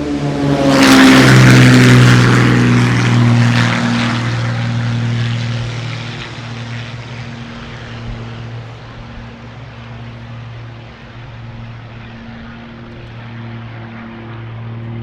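Helicopter flying past close by: its rotor and engine drone rises to its loudest about a second in, dropping slightly in pitch as it passes, then carries on more quietly as it moves away.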